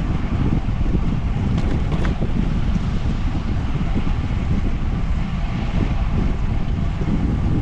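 Wind buffeting the microphone of a moving bicycle ride: a steady, loud low rush of wind noise.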